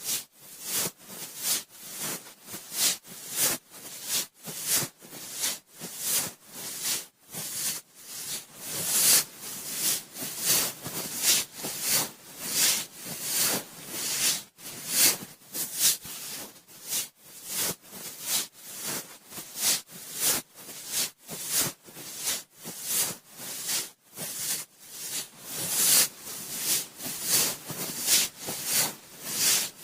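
Cotton swab swirling inside a binaural microphone's ear: close, hissy scratching rubs that swell and fade in repeated strokes, roughly one or two a second.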